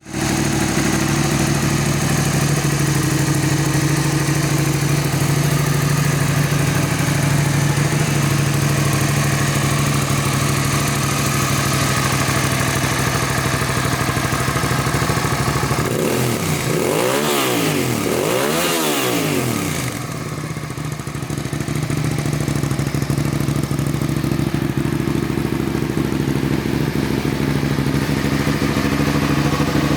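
Suzuki SV650S's 90-degree V-twin engine idling steadily, blipped twice about halfway through with two quick rises and falls in revs, then settling back to idle.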